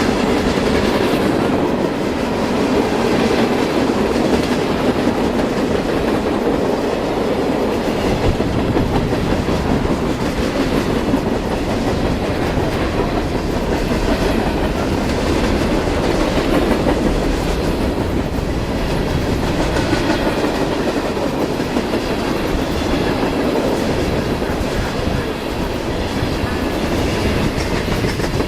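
Railroad cars rolling past at steady speed, their wheels clacking over the rail joints.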